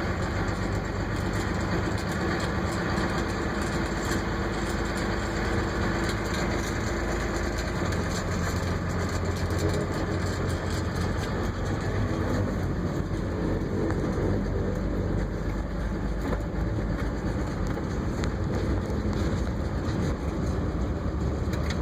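An engine running steadily: a constant low hum with a rushing noise over it.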